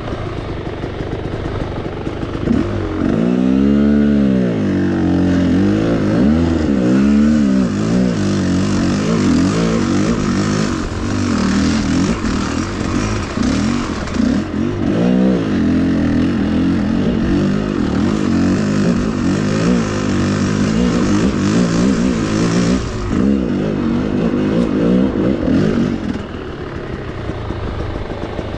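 Enduro motorcycle engine revving, its pitch surging up and down several times in the first half, then running at steadier revs and easing off near the end.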